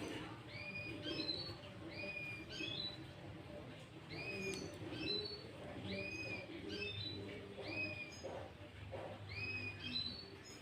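Sooty-headed bulbul (kutilang) singing a run of short, clear whistled phrases, each a quick upward note into a held one, repeated about once a second. Fainter low notes sound underneath.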